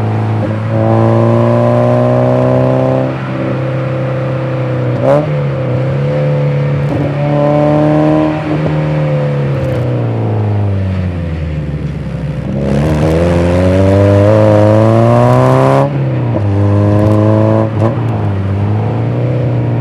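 Mazda MX-5 NA's 90 hp four-cylinder engine being driven through the gears. The revs climb and drop sharply at each shift several times, sink away about halfway through, then climb for a longer, louder pull before dropping again.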